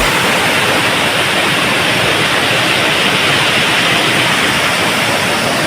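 Waterfall rushing, a steady, even hiss of falling water.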